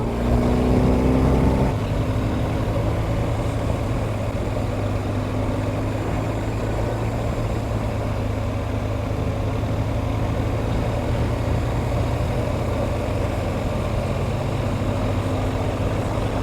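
BMW GS adventure motorcycle's engine running on the road, with steady wind and road noise. The engine note stands out more in the first couple of seconds, then settles into an even drone.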